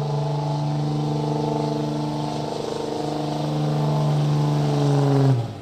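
Diesel pickup truck engine running at full throttle under heavy load while pulling the sled, a steady strong tone that swells slightly, then drops away abruptly about five seconds in as the throttle is let off at the end of the pull.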